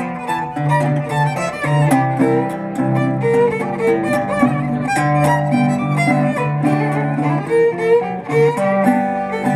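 Fiddle and guitar playing an old-time blues tune together, instrumental with no singing: the fiddle holds long bowed notes over a steady plucked guitar rhythm.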